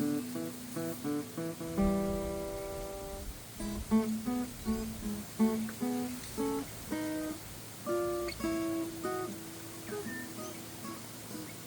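Steel-string acoustic guitar playing blues licks in E: picked single notes and short phrases, with a chord left ringing for about a second and a half starting about two seconds in.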